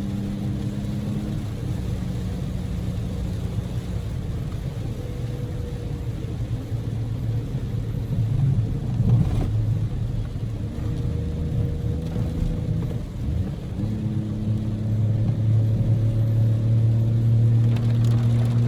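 Daihatsu Move's 660 cc three-cylinder EF-VE engine and road noise heard from inside the cabin while driving, a steady engine hum over rumbling tyre noise. The engine note gets louder and steadier about three-quarters of the way through as the car pulls harder.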